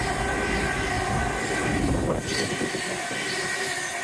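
Train passing along the line: a deep rumble that drops away about two seconds in, with steady whining tones over it.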